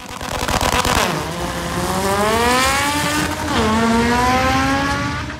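H2B-swapped Honda Civic's inline-four engine accelerating hard under load. Its pitch climbs steadily, drops sharply at a gear shift about three and a half seconds in, then climbs again before cutting off near the end.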